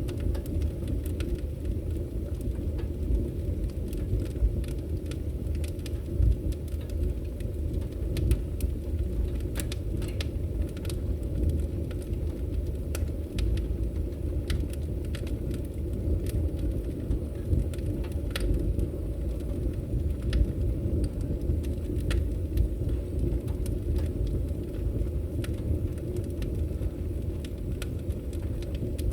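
Wood fire crackling in a fireplace: irregular sharp pops and snaps over a steady low noise of the burning flames.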